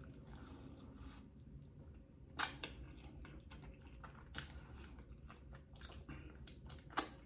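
A person chewing chicken wings close to the microphone: soft wet mouth clicks throughout, with two louder sharp clicks, one about two and a half seconds in and one near the end.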